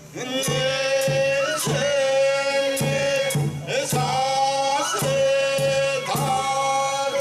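Bangaku folk music: male voices chanting long held notes that slide up into pitch, over drum and cymbal strokes roughly once a second.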